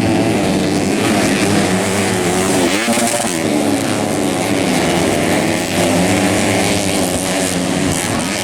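Several racing dirt-bike engines revving hard, their pitches overlapping and rising and falling as the riders work the throttle; about three seconds in one engine dips and climbs again.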